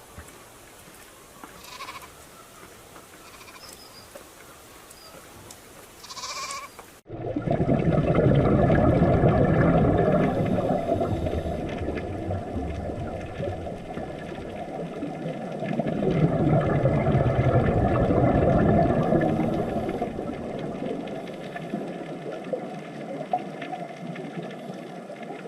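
A few short sheep bleats with quieter background sound between them. About seven seconds in, the sound cuts abruptly to a loud, rough, low-pitched rumbling noise that lasts to the end.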